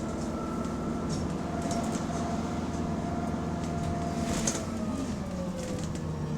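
Bus running along the road, heard from inside the passenger cabin: engine and drivetrain whine in several steady tones that slide down in pitch about five seconds in as the bus slows, over a rumble and scattered rattling clicks. The bus has an exhaust leak.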